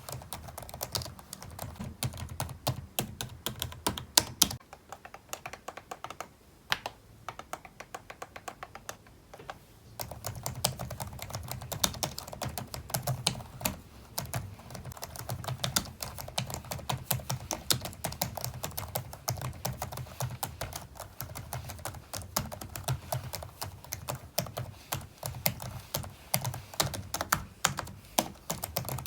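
Typing on a computer keyboard: a fast, irregular run of keystroke clicks that slows to scattered single keys for several seconds about a third of the way in, then picks back up to steady fast typing.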